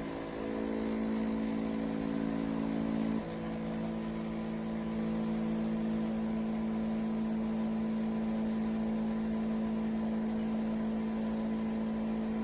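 A machine's steady hum made of several held low tones, dipping slightly in level about three seconds in.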